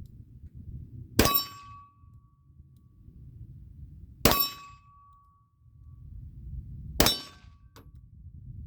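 Three pistol shots from a Rock Island 1911, about three seconds apart, each answered by the ring of a steel target being hit.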